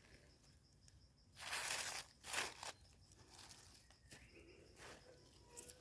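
A few short rustling crunches in dry leaves and undergrowth, the loudest about a second and a half in, over a faint steady insect trill.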